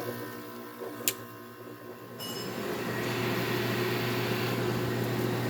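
Hampton Bay 5000 BTU window air conditioner running with a steady hum and a brief click about a second in. About two and a half seconds in the unit grows louder and holds there as its compressor starts to build pressure.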